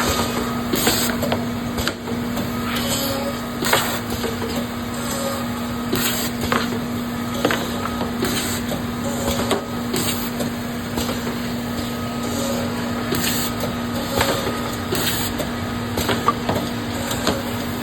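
Gannomat Index 130 Trend CNC bore and dowel machine running: a steady motor hum with short hisses and clicks repeating about once a second, typical of its air-driven clamps and cylinders cycling.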